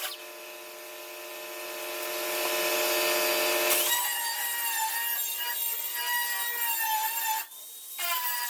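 Power grinder grinding down weld seams on a steel quarter-panel patch. It grows louder over the first four seconds, then settles into a steady whine with a grinding hiss. It breaks off for a moment near the end and starts again.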